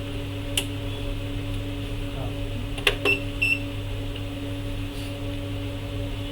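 Steady electrical hum from the repair bench, broken by a few sharp clicks and two short high electronic beeps about three seconds in.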